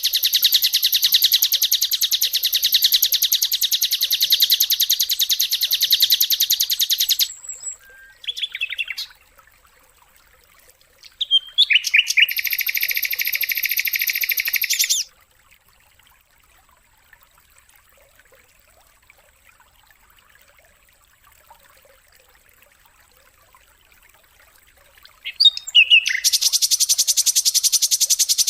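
Songbird calls: long, very fast buzzing trills lasting several seconds each, three runs with a long quiet gap before the last one starts near the end.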